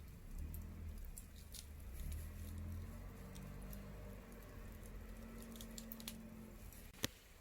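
Wood campfire crackling: irregular small snaps and ticks over a low rumble, with one sharper pop near the end.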